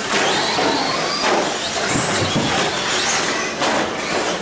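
Radio-controlled short course race trucks running on the track, their motors whining up and down in pitch over the sound of tyres on dirt. A few brief knocks are heard in between.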